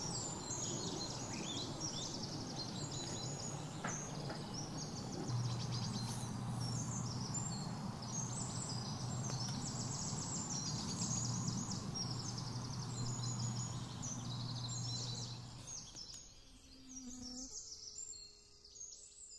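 Many birds chirping and singing in quick, repeated high notes, over a steady low hum that stops a little before the end, when the sound fades.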